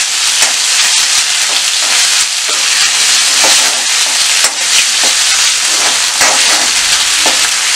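Ghee sizzling in a metal kadhai as a tempering of cumin seeds, dried red chillies, bay leaves and grated ginger fries, with a steel spoon scraping and stirring against the pan in irregular strokes.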